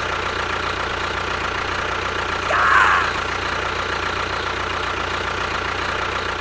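A small motor running steadily with a constant hum, with a brief squeal about two and a half seconds in.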